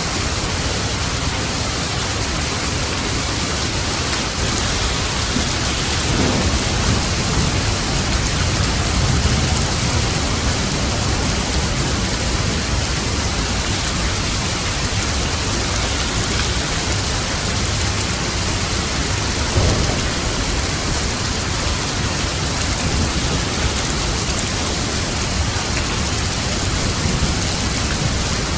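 Steady rain, with low rumbles of thunder: one swelling about six to ten seconds in and a brief louder one about two-thirds of the way through.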